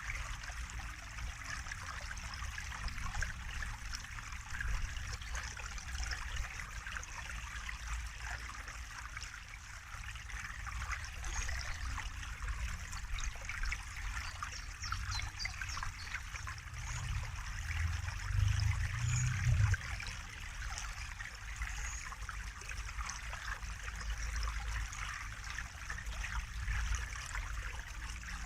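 Water trickling steadily, with a low rumble underneath that swells briefly past the middle.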